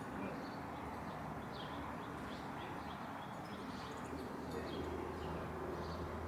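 Small birds calling in many short, quick chirps, with a steady low hum underneath that grows louder near the end.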